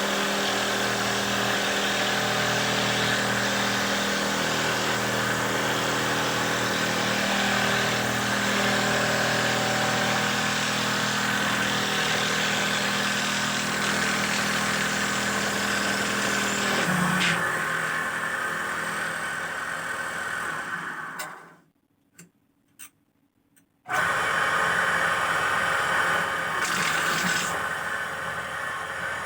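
Motor of a handmade wooden dowel-making machine running steadily with a constant pitched drone; about two-thirds of the way through the drone drops out, leaving a noisier run. Then it dies away to a couple of seconds of near silence with a few faint clicks, and the noisy running sound returns abruptly.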